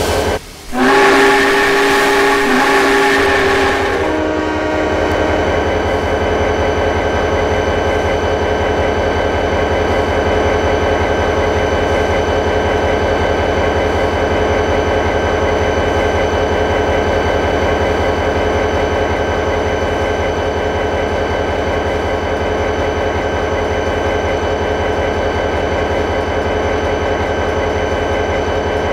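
A train whistle blows for about three seconds, several steady notes sounding together as a chord. It gives way to the train running with a steady hum and a fast, even pulse.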